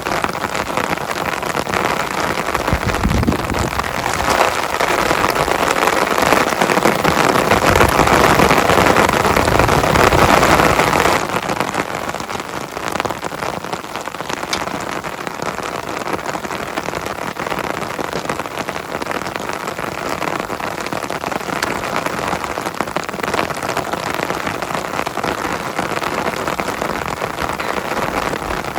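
Heavy rain falling: a dense, steady patter of many drops. About eleven seconds in it suddenly becomes quieter and lighter, then keeps on evenly.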